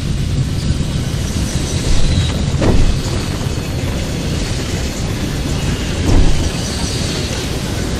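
Moving commuter train heard from its open doorway, a steady low rumble of the carriage on the rails. A few louder thuds come about two and six seconds in.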